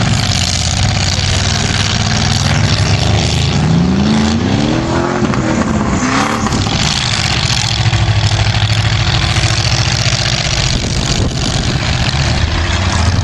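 Competition vehicle engines running loud, with one engine revving up and dropping back about four to six seconds in, over a steady engine drone.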